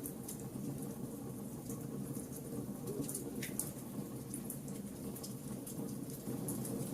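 Wood fire burning: a steady low rumble of flames with scattered sharp crackles and pops of burning wood, one louder pop about three and a half seconds in.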